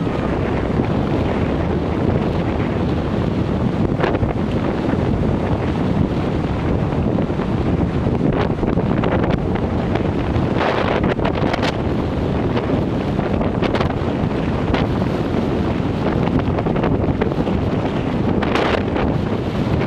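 Wind buffeting the camera microphone: a steady, loud rumbling noise, with a few short crackling gusts in the second half.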